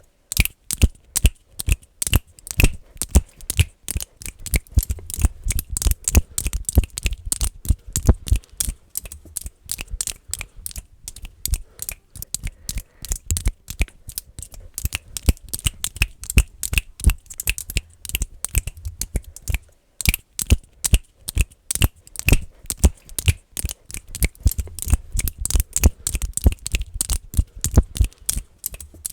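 Fast, aggressive finger clicking close to the microphone: sharp clicks, several a second, in an uneven rhythm, with a brief pause about two-thirds of the way through.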